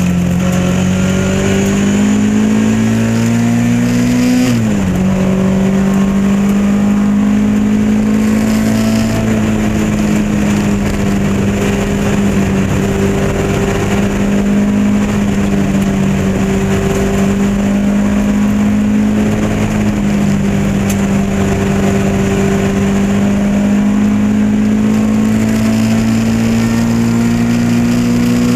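Lotus Elan Modsports race car's engine at high revs under full throttle, heard from on board. The revs climb, drop sharply at a gear change about four and a half seconds in, then hold nearly steady and creep up again near the end.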